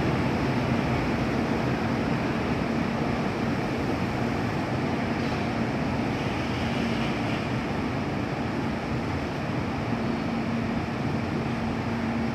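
Freight train running steadily: a constant rumble with a low, unbroken hum.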